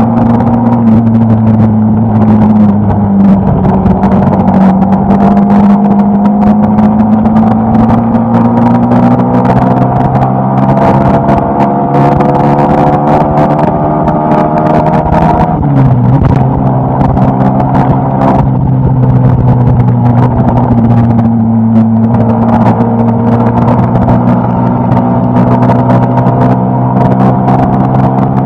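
Suzuki Gixxer SF250's single-cylinder engine pulling hard at high speed in the upper gears. Its pitch climbs steadily, drops suddenly at an upshift about halfway through, then climbs again. Wind rushes over the microphone.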